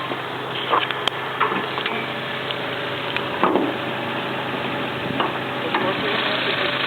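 Car engine idling steadily under a steady hiss, with a few short sharp clicks and knocks.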